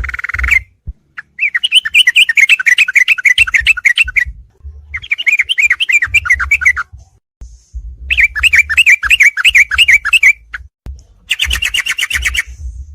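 Sooty-headed bulbul (trucuk) song in the fast ropelan style: long runs of rapid repeated notes, each run two to three seconds, with short pauses between them, four runs in all.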